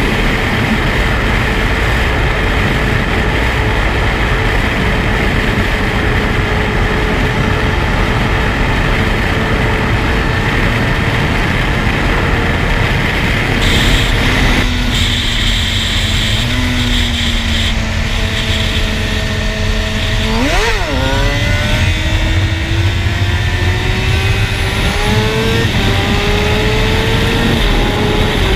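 Suzuki GSX-R 750 sport bike's inline-four with an Akrapovic exhaust, recorded through a camera's waterproof case. Wind rush over the engine at speed gives way about halfway through to the engine slowing, then a quick throttle blip, then rising revs as it pulls away, with a gear change near the end.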